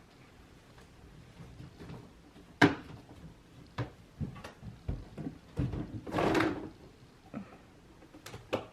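Scattered knocks and clicks, with one sharp knock about two and a half seconds in and a longer scrape or rustle about six seconds in, of a toddler handling things in a car and getting into a compartment.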